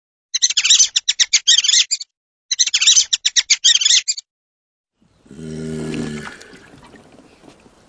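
A bird chirping rapidly in two high-pitched bursts of about a second and a half each, followed about five seconds in by a short, low-pitched call from another animal.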